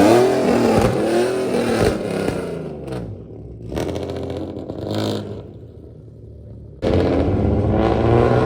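Car engine revving hard, its pitch rising and then falling away over the first two seconds. After a quieter stretch, a loud engine comes in suddenly near the end and revs up again with a climbing pitch.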